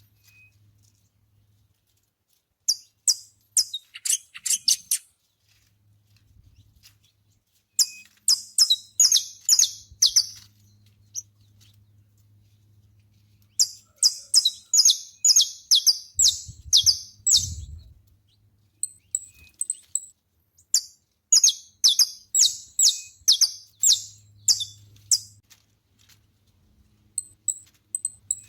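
Saffron finch singing: several bouts of rapid, high, sharp repeated notes, separated by short pauses.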